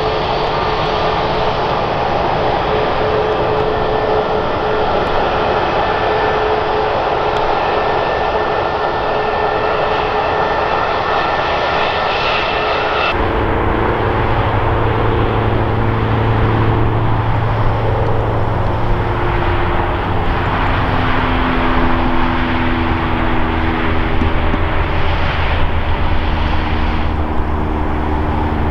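Airbus A320neo-family jet engines running: a steady roar with a high whine. About thirteen seconds in it cuts sharply to a lower engine hum with several steady tones that shift over time.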